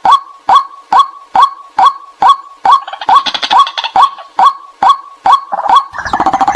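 White-breasted waterhen decoy call: a short clucking 'kwak' note repeated at an even pace, a little over two a second. From about halfway a rougher, jumbled layer of further calls joins in and grows louder near the end.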